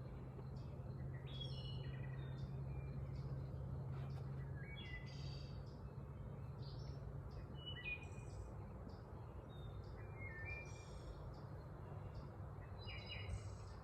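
Birds chirping and singing in short, varied notes, some sliding up or down, faint, over a steady low hum.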